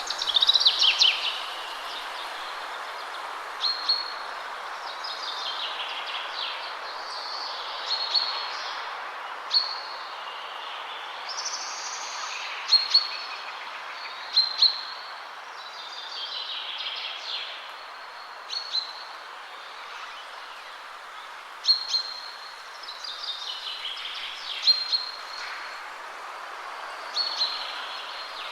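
Wind rushing steadily through trees, with songbirds singing over it: a descending song phrase every few seconds and short high whistled notes between them.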